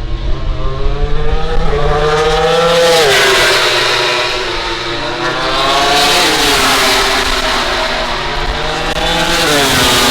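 MotoGP prototype racing motorcycles, with four-cylinder 1000 cc engines, running past at high revs. The engine pitch rises and falls, dropping sharply about three seconds in and again near the end.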